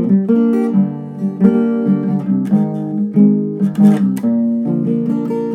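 Acoustic guitar strumming and picking chords.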